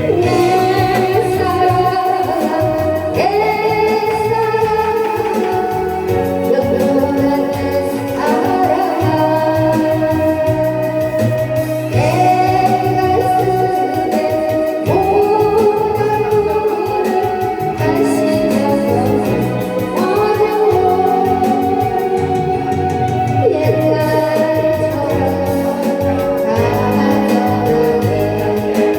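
Music: a slow song sung with a wavering, vibrato-laden melody over a backing track of electronic organ and guitar.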